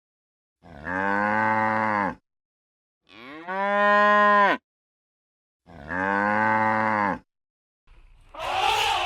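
Cow mooing three times, each call about a second and a half long with silent gaps between; the first and third calls are identical. A shorter, breathier sound follows near the end.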